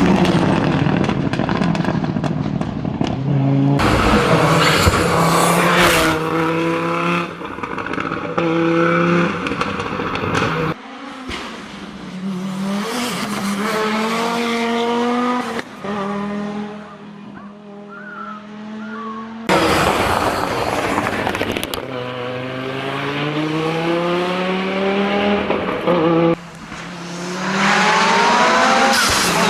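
Audi Quattro S1 rally car engine revving hard at full throttle, its pitch climbing and dropping again and again through gear changes and lifts. The sound changes abruptly several times as one run gives way to another.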